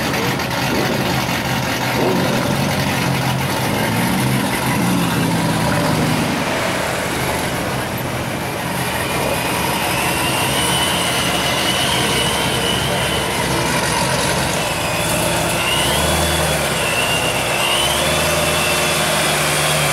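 Cars creeping past at walking pace with their engines running at low revs. First comes a Porsche Boxster, then a C7 Corvette Stingray's V8, whose deep engine note grows stronger as it pulls up close in the last few seconds.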